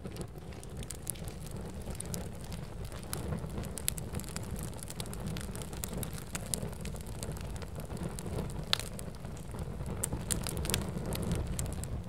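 Fire crackling in a fireplace: a steady low rumble of burning with frequent sharp crackles and pops, one loud pop about three-quarters of the way through.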